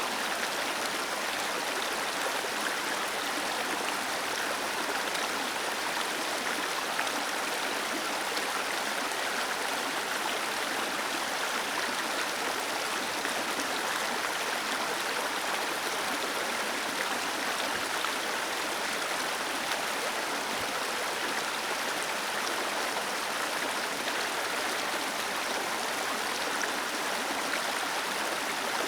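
Small waterfall cascading steadily: an even, continuous rush of falling and splashing water.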